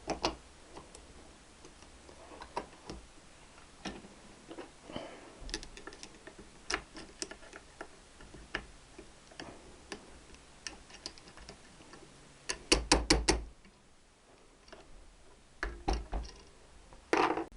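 Scattered metallic clicks and light taps as a Triumph gearbox's kickstart shaft and return spring are handled and fitted into the casing. The loudest part is a quick run of about five clicks about three quarters of the way through.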